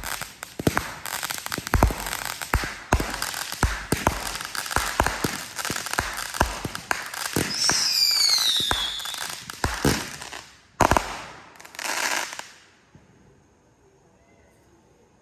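Fireworks going off in a rapid barrage of bangs and crackling, with a whistling firework's falling whistle about eight seconds in. A few last bangs and a crackle follow, then it dies away about thirteen seconds in.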